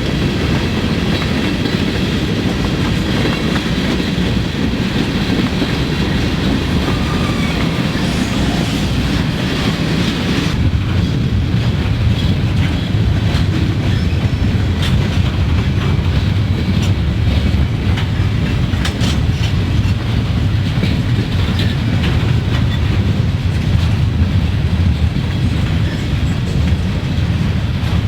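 Freight train cars rolling past at speed, a steady rumble of wheels on rail. About ten seconds in the rumble deepens and repeated wheel clicks over rail joints come through.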